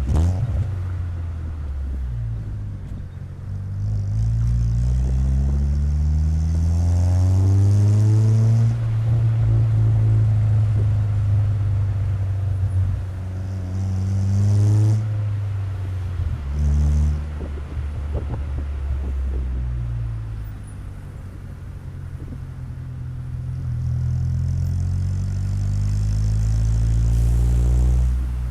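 Chevrolet Corsa Wind 1.0 MPFI four-cylinder engine's exhaust through a JK muffler, heard right at the tailpipe while the car is driven. The exhaust note climbs steadily in revs, holds, and falls back. There is a quick blip in the middle, then it climbs again and drops sharply near the end, as in gear changes.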